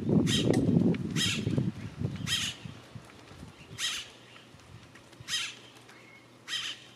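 A bird repeating short, harsh calls, about six of them, spaced roughly a second and a half apart. A loud low rumbling noise underlies the first two seconds, then drops away.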